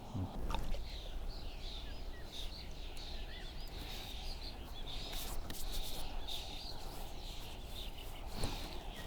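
Small songbirds chirping and singing, many short high calls overlapping, over a low steady background rumble.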